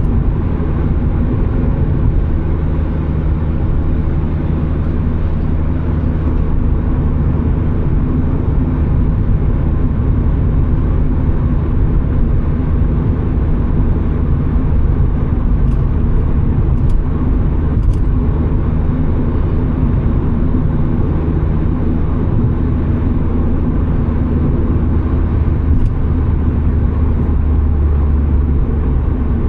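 Turbocharged Mazda Miata's four-cylinder engine running steadily under road and tyre noise while the car cruises at an even pace.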